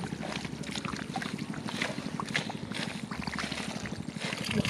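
A small engine running steadily with a fast, even beat, with scattered splashes and clicks in mud and water over it.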